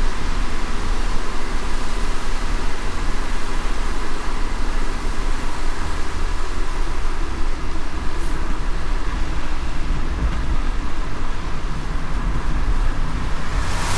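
Steady low rumble of a car driving in light rain, with road noise and an even hiss of rain.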